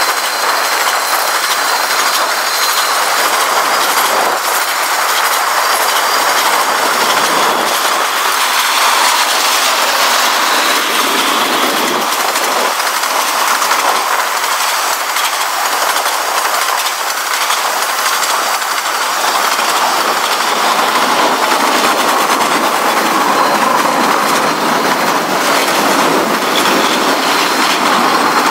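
Freight train's cars (tank cars, gondolas and boxcars) rolling steadily past, steel wheels clattering over the rail joints in a continuous clickety-clack. A faint high steady squeal comes and goes near the start and the end.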